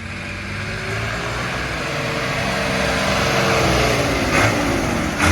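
Tractor engines running; one grows louder as it comes close, and its pitch drops as it goes past.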